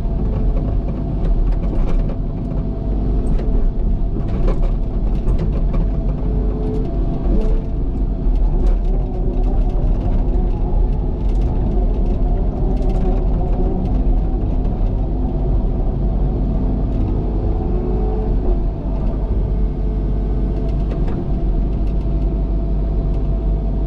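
Cat excavator's diesel engine running steadily while digging, with a steady whine and scattered knocks from the digging.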